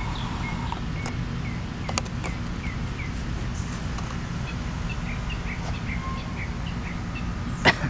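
A bird chirping over and over in short, quick notes above a steady low rumble, with a sharp click near the end.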